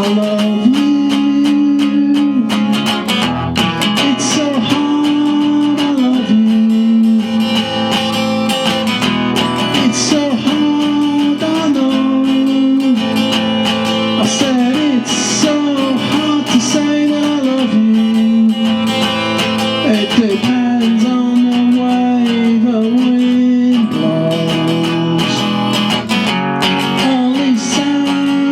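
Acoustic guitar strummed and picked through an instrumental passage of a bluesy solo song.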